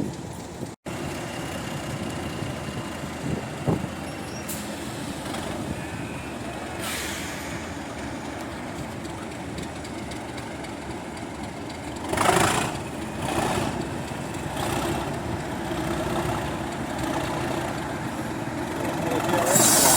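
Heritage diesel locomotive engine running steadily, with bursts of air hissing about twelve seconds in and again near the end.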